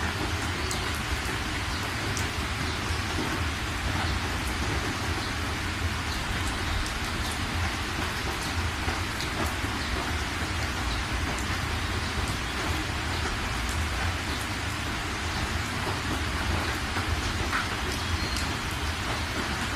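Heavy rain falling on a moving car's windshield and roof, heard from inside the cabin. The rain makes a steady hiss with scattered sharp drop hits over a constant low rumble.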